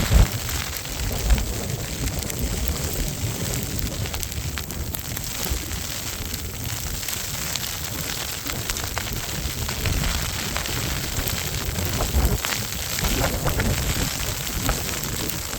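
Snowstorm wind buffeting the microphone: an uneven low rumble that swells and drops, over a steady hiss, with scattered small clicks.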